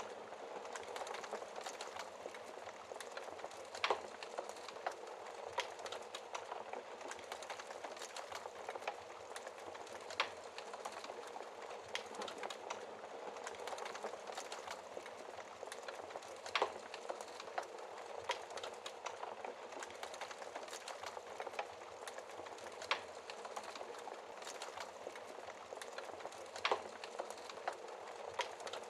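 Wood fire crackling in a fireplace: a steady hiss with small crackles throughout and a sharp louder pop every few seconds.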